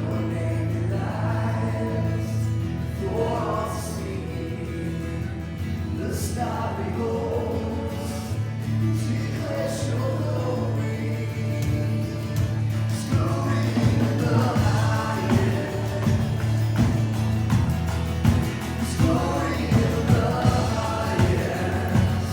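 Worship music: voices singing a song over a band with held low notes. A steady beat grows stronger about halfway through.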